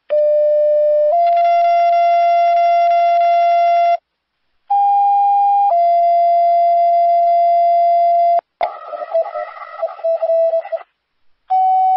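Two-tone sequential paging tones sent over a fire dispatch radio channel to alert stations: a short steady tone stepping to a longer, slightly different tone, twice, with a stretch of rough, wavering radio noise between, and a third pair beginning near the end.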